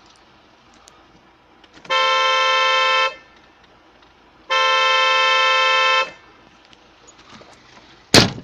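Vehicle horn sounding two long blasts, the first about a second long and the second about a second and a half, followed near the end by a single sharp knock.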